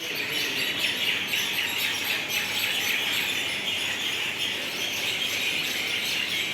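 Many birds chirping and calling at once, a dense, continuous chorus of overlapping chirps.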